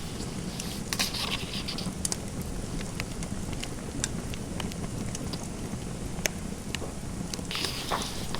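Fireplace crackling: scattered sharp pops and snaps over a steady low hiss. Brief scratchy strokes of a pen writing on paper come about a second in and again near the end.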